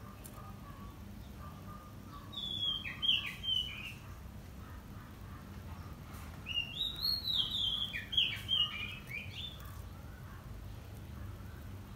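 Small bird calling in two bouts of quick, sliding chirps: a short bout about two and a half seconds in, and a longer one from about six and a half to nine and a half seconds.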